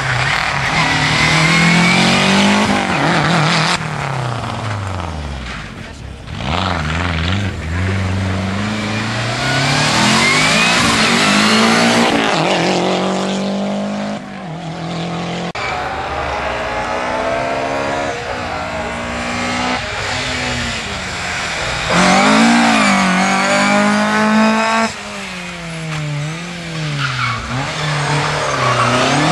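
Rally car engines revving hard and changing gear, pitch climbing and dropping again and again, with the sound cutting abruptly from one car to the next several times.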